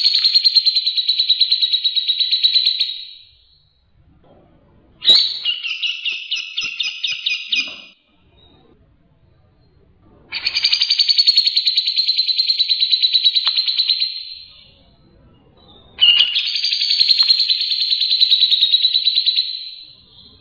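Songbird song from a masteran recording used to tutor cage birds: four long, fast trilled 'tembakan' phrases, each about three to four seconds, with short pauses between them. The second phrase is made of slower, more separated notes.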